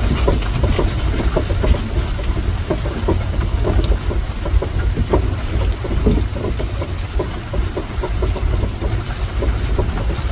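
Horse-drawn covered wagon rolling along: a steady low rumble with constant clattering and knocking of the wheels and wagon box.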